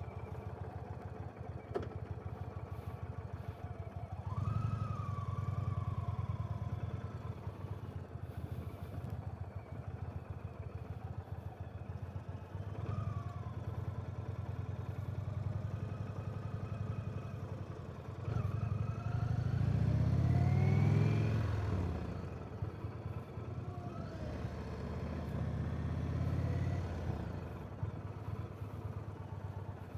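Indian Chief Vintage's V-twin engine running on the move, picking up revs and easing off several times, loudest about two-thirds of the way through.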